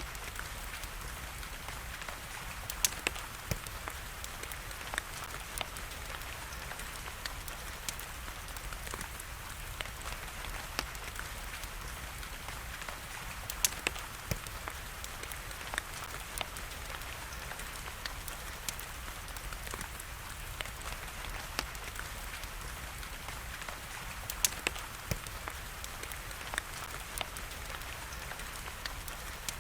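Steady hiss of rain with a wood fire crackling over it: scattered sharp pops, a few louder ones about three seconds in, midway and about three-quarters through.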